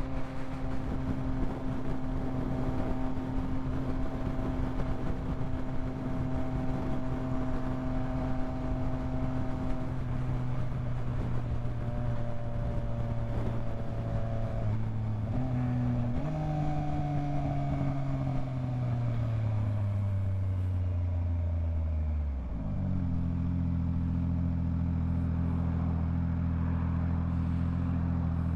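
Yamaha MT-09 three-cylinder motorcycle engine running steadily under the rider, with wind and road noise. About halfway through the revs step up briefly, then the pitch falls slowly as the bike slows, settling at a lower steady pitch for the last few seconds.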